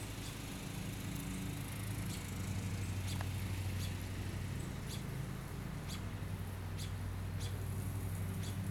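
Baby birds peeping: short, thin, high-pitched cheeps repeating roughly once a second, over a steady low hum.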